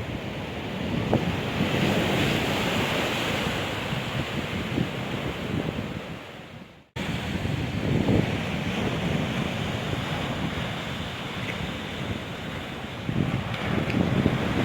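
Stormy sea surf breaking on the shore, with strong wind buffeting the microphone. The sound fades away about halfway through and cuts straight back in.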